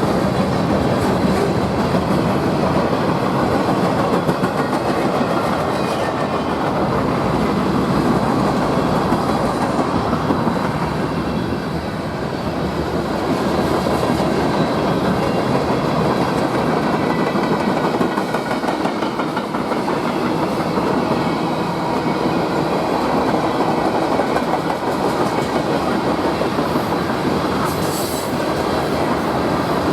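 Freight train cars rolling steadily past on the rails, a continuous loud rumble of wheels on track.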